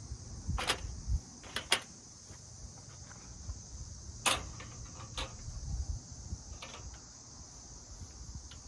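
Faint, steady high-pitched chirring of insects, with a few sharp knocks and clicks scattered through, the loudest about four seconds in.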